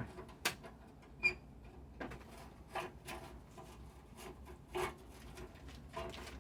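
Scattered metal clinks and knocks of parts and tools being handled while the train's drive chain is worked at, with a short metallic ping about a second in.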